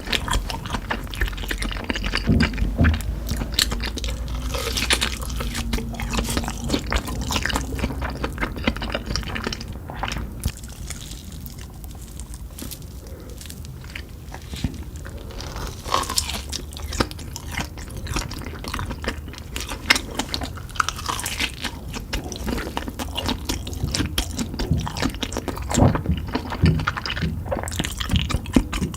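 Chewing and crunching of Cheetos-crusted meat fingers, many small irregular crackles, easing off for a few seconds in the middle.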